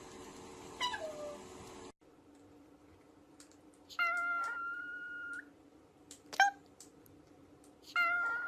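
A pet's repeated calls. A short falling call comes just under a second in, then two long calls held at one level pitch for about a second and a half each, with a brief call between them.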